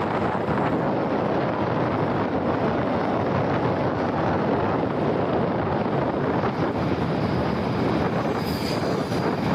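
Steady rush of wind over the microphone on a moving motorbike, mixed with road and engine noise. A faint high tone comes in briefly near the end.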